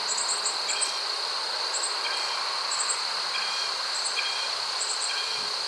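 Outdoor insects calling: a steady high-pitched trill with short chirps repeating every half second or so.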